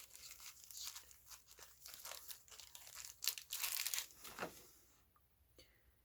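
Foil booster-pack wrappers crinkling and rustling as a stack of packs is handled and shuffled, with dense crackles that die away about five seconds in.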